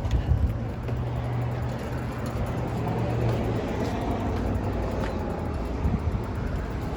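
Road traffic: a motor vehicle's engine running close by, with a steady low hum for the first few seconds under general street noise.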